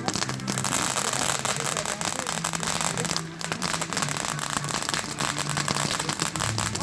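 Fireworks crackling: a dense, continuous spatter of small rapid pops, with a short lull about three seconds in.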